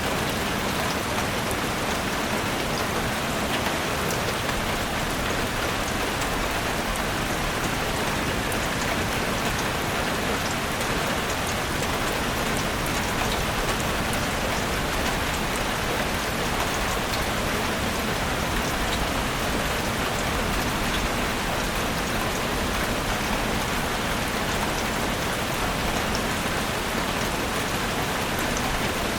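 Steady rain falling in a forest, an even hiss with scattered drops pattering on leaves and surfaces.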